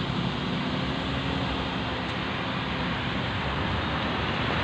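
Dump truck engine running steadily under a constant rushing noise, with no sudden knocks or changes.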